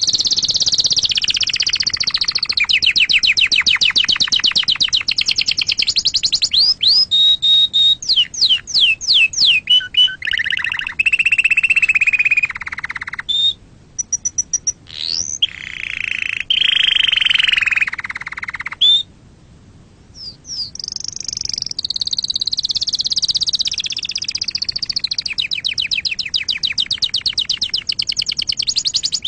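Domestic canary singing: fast rolling trills of rapidly repeated notes and long held whistled phrases, broken by two short pauses, about 13 and 19 seconds in.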